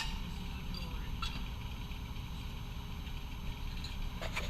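A steady low mechanical rumble like an idling engine, with a few faint clicks and taps over it.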